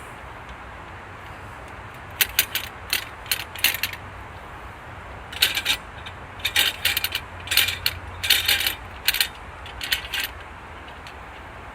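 Sharp metallic clicks and rattles of a Granberg Alaskan chainsaw mill's fittings being worked by hand as a piece is slid into place: a cluster about two seconds in, then a longer run from about five to ten seconds in.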